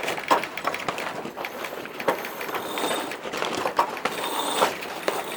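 A rapid, irregular run of mechanical clicks and knocks.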